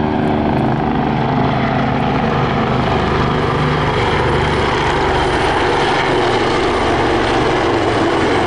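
Low pass of Royal Navy display aircraft, helicopters and a propeller-driven Swordfish biplane, loud and steady. A humming engine and rotor tone fades about a second in into a dense rushing noise.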